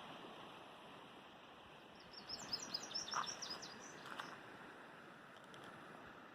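A bird sings a quick run of high chirps starting about two seconds in and lasting about two seconds, over a faint steady outdoor hiss.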